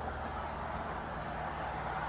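A vehicle engine idling: a steady low hum with no sharp events.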